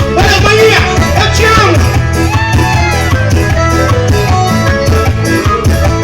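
Live forró band music with a steady bass beat and gliding melodic lines in the first few seconds.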